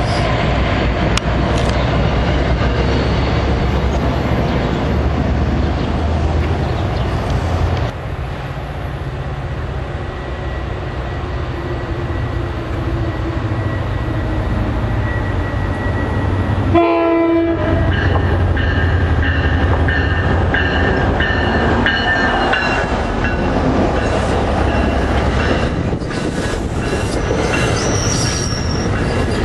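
Commuter train passing close by, a steady low rumble with wheels clattering over the rails, and a train horn sounding.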